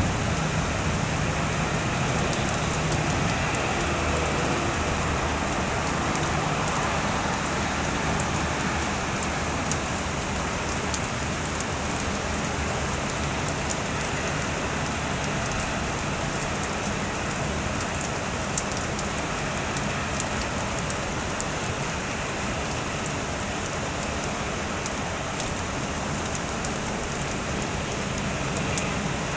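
Rain falling steadily during a thunderstorm, with scattered sharp taps of drops on nearby surfaces.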